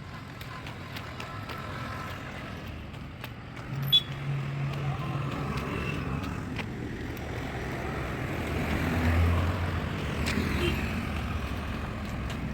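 Road traffic going by, with vehicle engines humming and one passing more loudly about nine seconds in. A single sharp knock about four seconds in.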